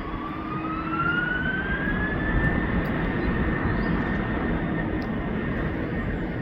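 Airbus A330-300 jet engines spooling up for takeoff: a whine that rises in pitch over the first couple of seconds and then holds steady over a rushing jet noise that grows louder about a second in.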